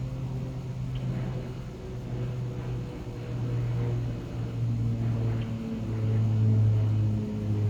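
A low, steady motor hum whose pitch shifts up and down a little every second or so.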